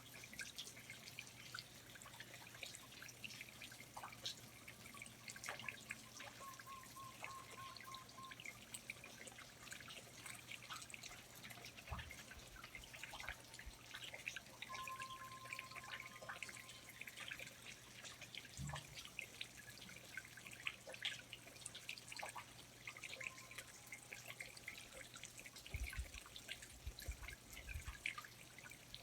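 Rainforest ambience of water dripping from the foliage: many faint, irregular drips and taps. Two brief high trills come in about 7 and 15 seconds in, and a few low thumps sound near the end.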